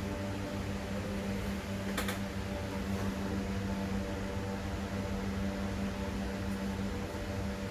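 Steady low hum with an even fan-like hiss, and a faint click about two seconds in.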